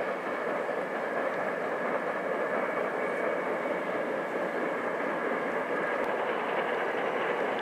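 Hankyu Kyoto Line electric train running across a steel girder bridge over the river, heard from across the water as a steady rush of wheels on rails.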